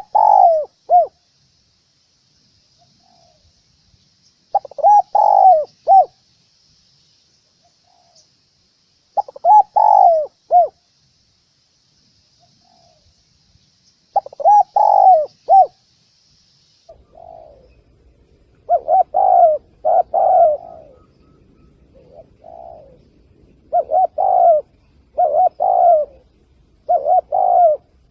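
Spotted dove cooing in repeated short phrases of three or four notes, used as a call to lure wild doves. The first phrases come about every five seconds. From about two-thirds of the way through, a low hum comes in and the phrases follow each other much faster, about one a second.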